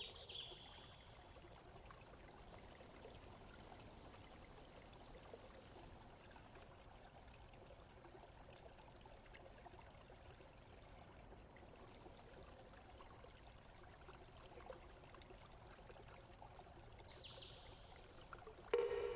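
Faint, steady flowing water, like a small stream, with a few brief high bird chirps spaced several seconds apart. A ringing pitched tone is fading at the very start and sounds again just before the end.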